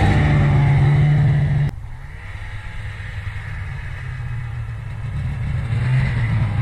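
440 cc snowmobile engine running loud at a steady high rev, then dropping abruptly to a much quieter engine sound about two seconds in, which builds up again near the end.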